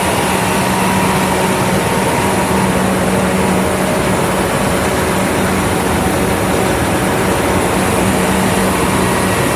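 John Deere S670 combine running steadily, a loud, even machine drone with a constant hum and a fainter whine.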